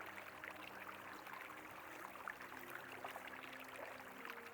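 Faint river water flowing and babbling steadily, with a faint steady low hum beneath it.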